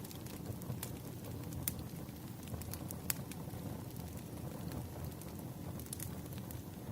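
Wood fire crackling: a steady low rumble of burning logs with a handful of sharp pops scattered through it.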